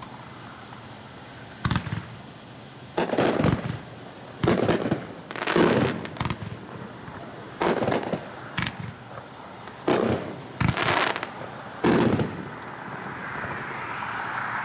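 A 500-gram consumer fireworks cake firing its shots: about nine sharp, irregularly spaced booms, some in quick pairs, over roughly ten seconds.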